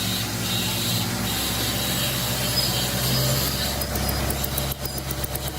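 Steady machinery hum with a quick run of clicks near the end.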